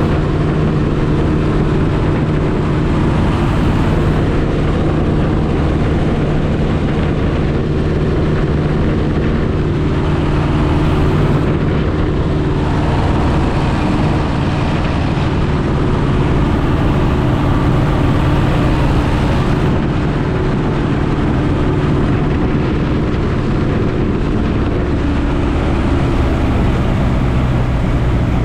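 Piper J-3 Cub's engine and propeller droning steadily in cruise flight, heard from inside the cockpit with a constant rush of wind noise.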